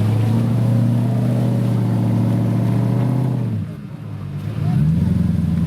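Competition off-road 4x4's engine held at high revs, then easing off briefly about three and a half seconds in before revving up again with a rising pitch.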